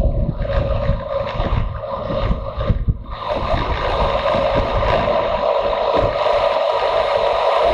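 Motorcycle engine running under way, with wind rushing over the microphone. The engine note breaks off briefly about three seconds in, then comes back as a steadier drone.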